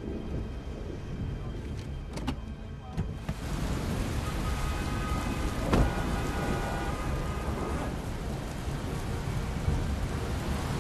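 Heavy rain falling steadily, much louder from about three seconds in, after a few sharp clicks, with one sharp thump near the middle.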